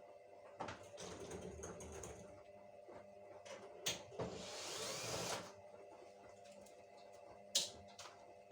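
Hands working with tools and parts: scattered sharp clicks and knocks, with two spells of rustling or scraping, over a faint steady hum.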